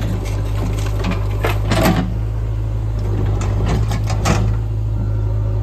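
Heavy diesel machinery running steadily while murum is loaded into a tractor trailer: a constant low engine drone with irregular clanks and rattles of soil and stones, clustered about a second and a half in and again around four seconds in.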